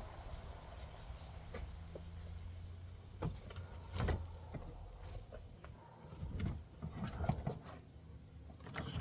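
A few short knocks and a run of softer bumps and scrapes from the rolling makeup case being handled into a vehicle's cargo space, over a steady low hum.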